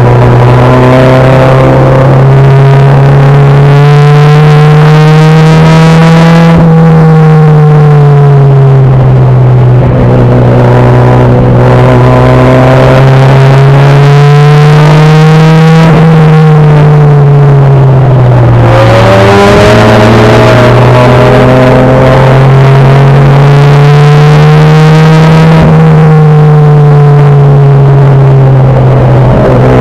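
Front-wheel-drive four-cylinder enduro race car's engine, loud inside the stripped cabin, revving up in a long slow rise and then dropping back, three times over as the car laps the short oval.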